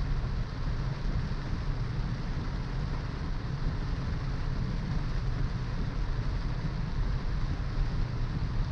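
Steady noise of a car driving in the rain: a low rumble of engine and road with a continuous hiss from the wet road and rain.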